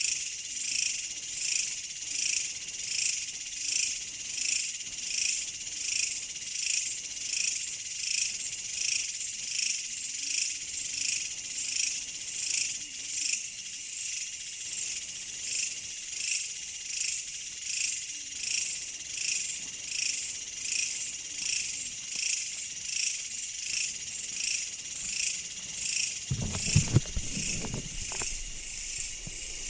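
Chorus of insects chirping in a steady, even pulse, about one and a half beats a second. A few low thumps come near the end.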